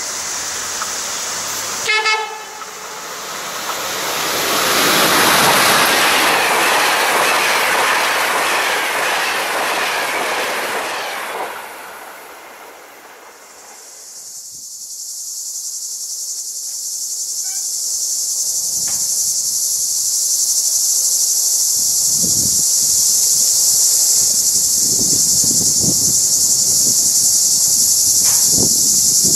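A HellasSprinter class 120 electric locomotive hauling an InterCity train sounds a short horn blast about two seconds in. It then passes at speed with a loud rush of wheel and air noise that rises and fades away over about ten seconds. After that a steady, high, loud buzz of cicadas takes over, with faint low rumbling in the last several seconds.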